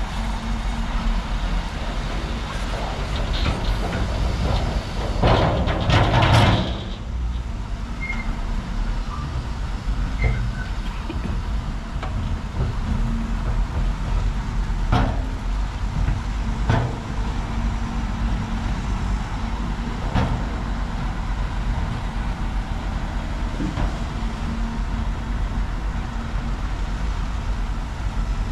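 Diesel engine of heavy earthmoving machinery running steadily, with a louder surge of rushing, scraping noise about five to six seconds in and a few sharp clanks later on.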